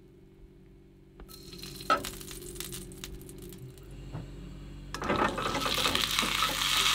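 Hot oil in a frying pan with a few light clinks of utensils. About five seconds in, a loud sizzle starts as the part-cooked grated-potato rösti goes back into the oil and fries.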